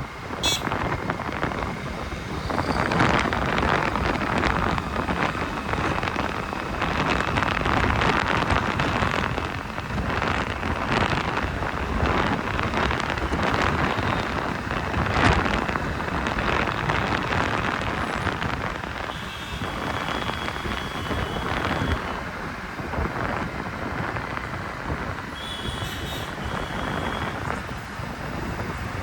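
Road traffic and wind noise heard from a motorcycle riding through city traffic, rising and falling with passing vehicles. A faint high steady tone sounds twice in the second half.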